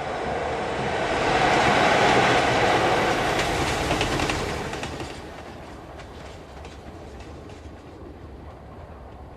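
Train running on the rails, swelling loud with the clickety-clack of wheels over rail joints a few seconds in, then fading to a quieter steady rumble.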